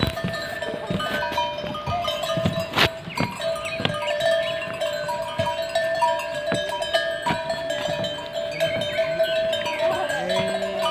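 Bells hung on the necks of cows clanking and ringing irregularly, several at once, as the cattle move about.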